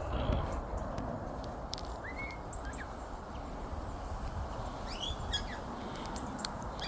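Wind rushing and buffeting the microphone throughout, with a few short arched bird calls: one about two seconds in, two more around five seconds in, and another at the very end.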